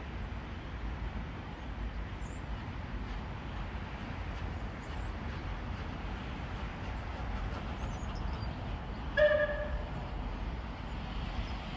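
A steam locomotive's whistle gives one short toot about nine seconds in, over a steady low rumble.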